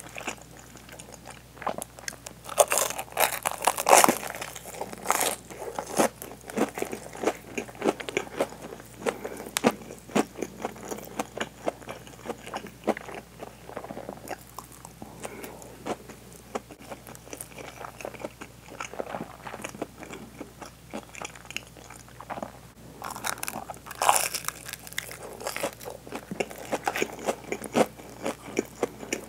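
Close-miked chewing of crisp deep-fried breaded hanpen (fish cake with cheese): loud crackly crunches a few seconds in and again near the end, with softer, wetter chewing between.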